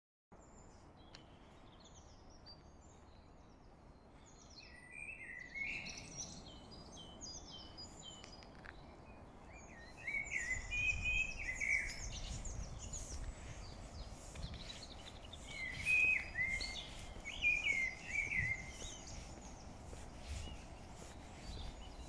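Several songbirds singing in overlapping short chirping and warbling phrases, sparse at first and louder and busier from about ten seconds in, over a steady low rumble.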